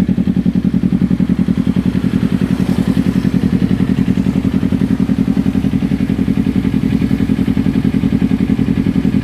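2018 Kawasaki Ninja 250's parallel-twin engine running steadily through a LeoVince LV10 slip-on exhaust, with an even, rapid exhaust beat at a constant speed and no revving.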